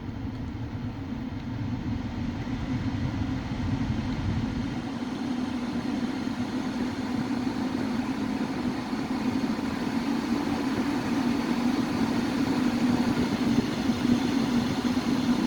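Ford Focus II heater blower fan running at raised speed: a steady rush of air that grows gradually louder, with no squeak or whistle now that the motor has been cleaned and lubricated.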